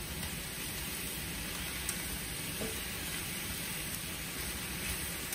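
Sliced mushrooms and shallots sizzling steadily in butter in a stainless steel skillet, stirred with a spatula.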